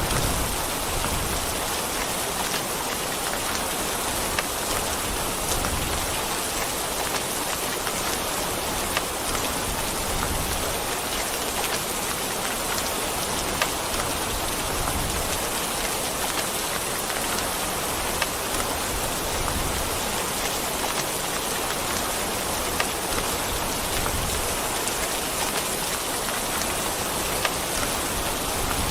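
Steady rain falling, an even rushing hiss dotted with scattered sharper drop taps.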